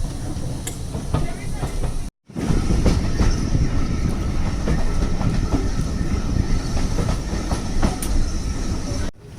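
Train running along the rails: a steady rumble with scattered clicks from the wheels over the track. The sound cuts out abruptly for a moment about two seconds in, then resumes.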